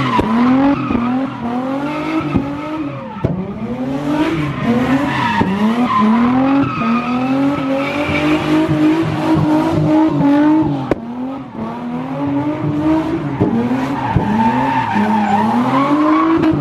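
Car engine revving hard over and over, its pitch climbing and falling back about once a second, with tires squealing as the car spins in tight circles doing donuts.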